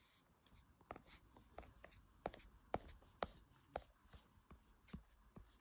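Faint, irregular light clicks and taps, about two a second.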